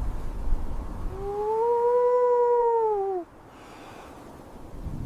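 A wolf howling: one long call of about two seconds that rises slightly, holds, then drops away at its end, over a low rumble of wind.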